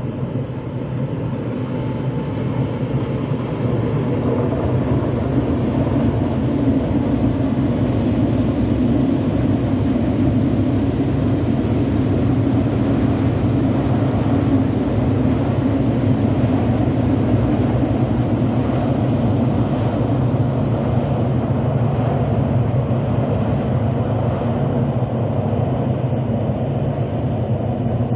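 KTX-Sancheon high-speed electric train running past on a viaduct: steady running noise of wheels on rails, building over the first few seconds and easing slightly near the end.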